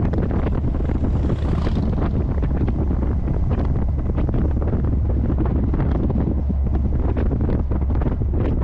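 Heavy wind buffeting the microphone of a C3 Corvette on the move: a steady low rumble broken by constant crackling gusts.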